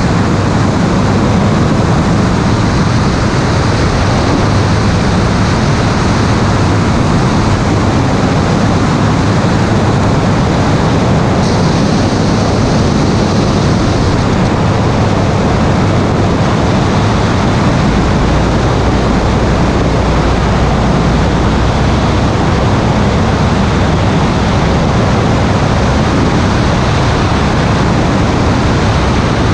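Loud, steady rushing noise of air and motion on the microphone of an airborne camera in flight, with no distinct engine or propeller tone.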